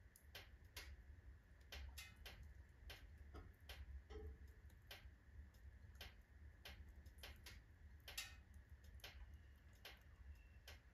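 Wood fire of oak and alder logs crackling in a fireplace stove: faint, irregular snaps and pops at uneven intervals.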